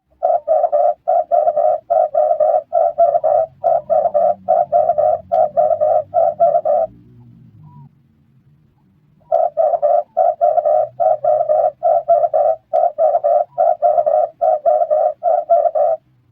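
Red turtle dove cooing: two long runs of rapid, evenly repeated coos, about three a second, with a pause of a couple of seconds between the runs.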